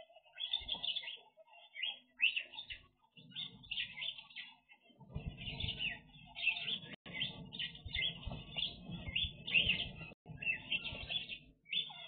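A flock of aviary birds chirping, short clusters of high calls repeating every second or so, with a low rumble under them for a few seconds midway.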